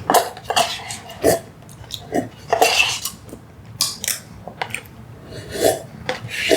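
A spoon scraping and clicking against the inside of a Dairy Queen Blizzard cup in irregular strokes, digging out the last of the melted ice cream.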